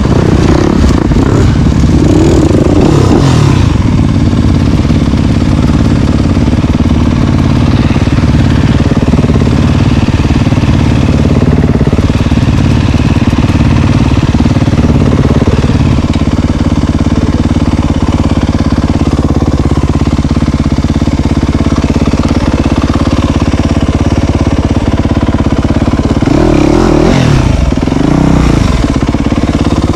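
Dirt bike engine running steadily while under way, revs rising and falling briefly about two seconds in and again near the end.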